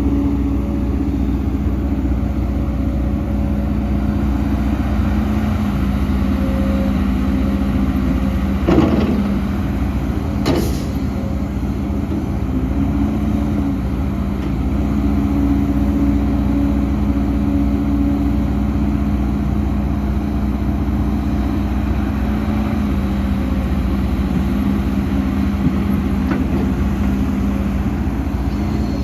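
Heavy diesel earthmoving machinery running steadily, an excavator and dump trucks at work. Two sharp knocks come about nine and ten and a half seconds in.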